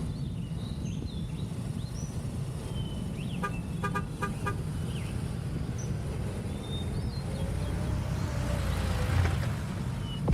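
Riding noise from a Ducati Multistrada V4S: the V4 engine and wind rushing steadily, swelling a little near the end, with a quick series of short beeps about four seconds in.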